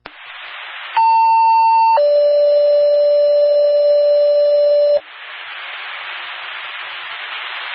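Two-tone sequential fire paging tone over a scanner radio: a higher tone held for about a second, then a lower tone held for about three seconds, with radio channel hiss before and after.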